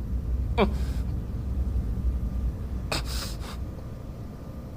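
A person crying: a short falling whimper about half a second in, then a sharp gasping sob of breath around three seconds, over a low steady rumble.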